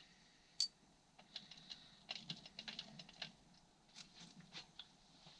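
Faint scattered clicks and light taps of small engine parts and tools being handled during the teardown, with one sharper click just over half a second in and a quick run of small clicks in the middle.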